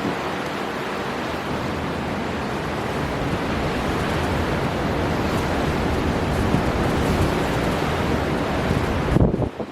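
Storm wind and rough sea surf making a steady, dense rush that swells a little, then drops away suddenly just before the end with a few sharp knocks.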